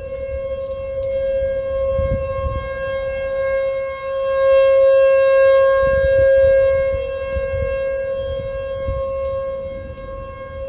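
Outdoor tornado warning siren sounding one steady wailing tone. It swells louder about halfway through, then eases off as the rotating horn turns away. A low rumble runs underneath.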